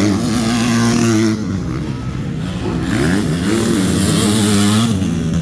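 Motocross motorcycle engines revving, their pitch falling and climbing again several times as the throttle is worked, a little quieter from just over a second in.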